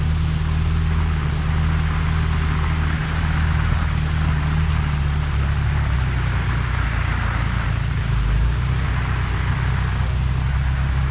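Steady hiss of heavy rain, with a continuous low rumble underneath.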